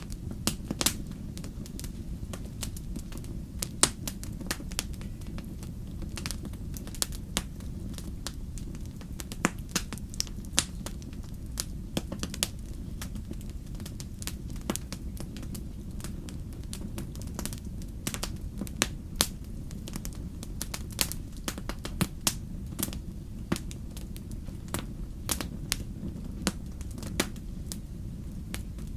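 Wood campfire burning: irregular sharp crackles and pops, several a second, over a steady low rumble.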